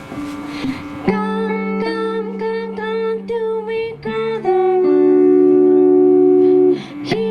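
Live indie-pop band playing: about a second in, a run of sustained, evenly held notes begins, swelling into one long loud held chord for a couple of seconds near the end.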